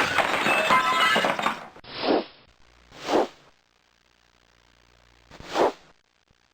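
Sound-effect crash with clattering, lasting about a second and a half, followed by three separate whooshes that each swell and fade.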